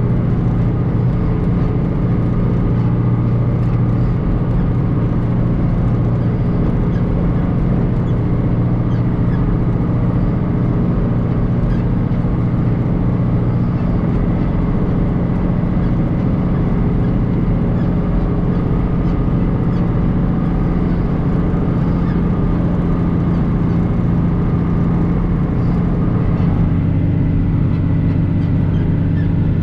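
John Deere 2940 tractor's six-cylinder diesel running steadily while it pulls a Kuhn rotary hay rake. About 27 seconds in, the engine note drops slightly lower.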